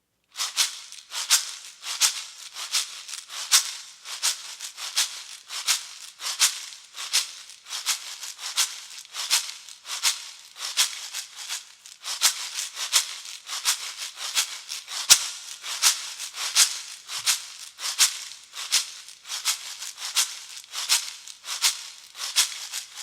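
A hand rattle shaken in a steady rhythm, about three shakes every two seconds, each a dry, hissy rattle.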